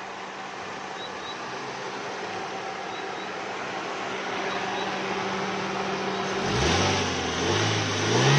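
Suzuki Swift 1.3 four-cylinder engine, running on CNG, idling evenly. Near the end it is revved up twice, rising and falling in pitch. It runs smoothly, its misfire cured after new spark plugs and drying out moisture in the ignition.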